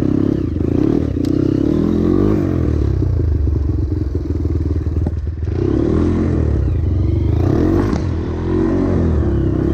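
Trail motorcycle engine running under load, its revs rising and falling with the throttle, with a brief drop in revs about five seconds in.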